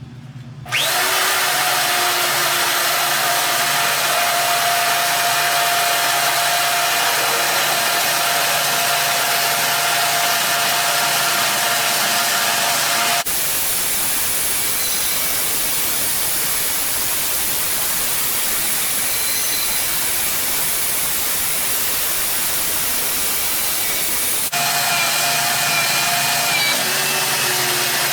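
Bandsaw running and cutting through a steel bar, a steady saw noise with a held tone. The sound changes abruptly about 13 seconds in and again near 24 seconds in.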